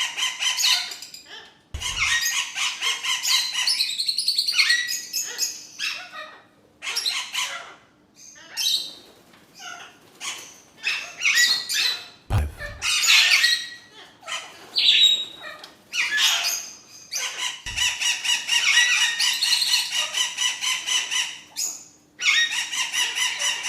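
Pet parrots chirping, chattering and squawking in runs of a few seconds, with short pauses between them. Three brief low thumps come about 2, 12 and 18 seconds in.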